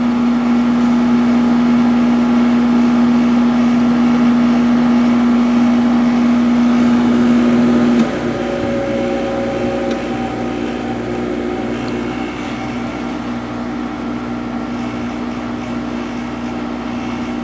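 Sharp 8500 BTU window air conditioner running on its test run: a steady fan whoosh over a loud humming tone that cuts off abruptly about eight seconds in, after which the unit runs on a little quieter with a low pulsing hum.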